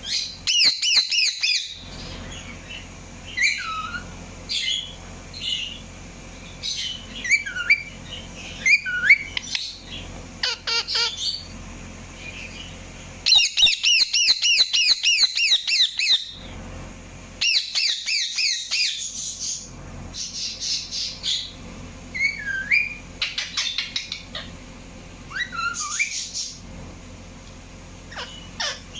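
Indian ringneck parakeet calling: fast runs of quick, repeated high notes, the longest lasting about three seconds around the middle, mixed with short single down-slurred calls.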